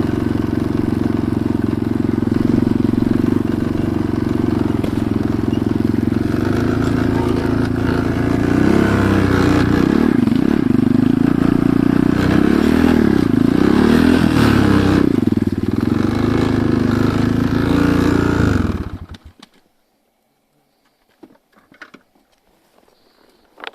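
Enduro motorcycle engine running, its pitch rising and falling several times in the middle, then switched off about three-quarters of the way in; a few faint clicks follow.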